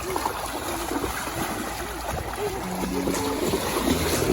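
Water sloshing and splashing steadily in an inflatable kids' pool as children wade around its edge, churning it into a whirlpool.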